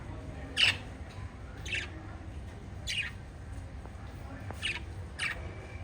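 Small pet parrots giving five short, high chirps, spaced about a second apart, over a steady low background hum.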